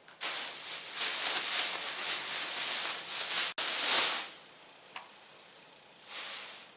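Bag of clothes being handled and rummaged through, rustling and crinkling loudly for about four seconds, with a shorter rustle near the end.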